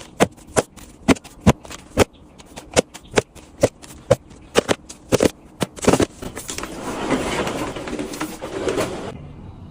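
A quick series of sharp clicks and taps, about two or three a second, from items and food containers being handled while a refrigerator is organized. About six and a half seconds in, this gives way to a few seconds of steady noise that cuts off suddenly.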